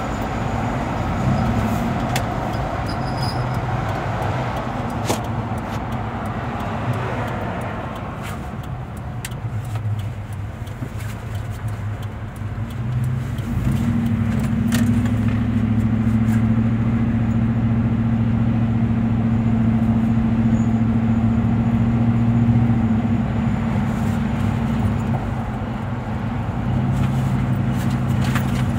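2007 Ford F-150 pickup driving, with steady engine and road noise. A higher-pitched noise rides over it for roughly the first eight seconds, and a strong low drone builds from about halfway through.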